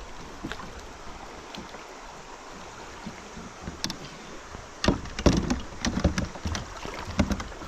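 Steady rush of river water, then from about five seconds in a run of sharp knocks and low thumps as a caught bass is handled and measured in a kayak.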